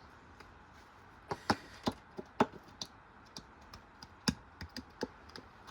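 Irregular sharp clicks and knocks from a wrecked washing machine, about a dozen in five seconds at uneven intervals.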